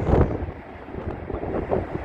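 Gusty wind buffeting the microphone, a loud gust at the start easing off about half a second in.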